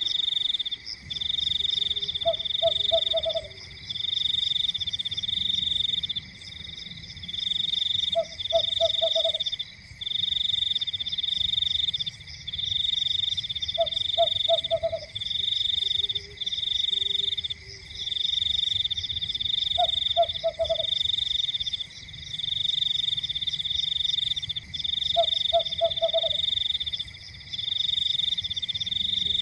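Night chorus of frogs and insects. A loud high trill comes in bursts about a second long with short gaps, over a steady high whine. About every six seconds a frog gives a short low croak of three or four quick pulses.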